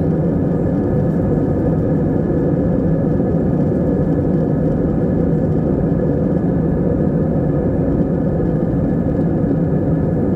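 Passenger airplane in flight heard from inside the cabin: a steady low rumble of engines and airflow with a faint even hum, unchanging throughout.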